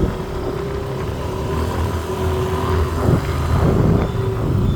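City street traffic: motor vehicle engines running close by, a steady low rumble with a held engine tone through most of it.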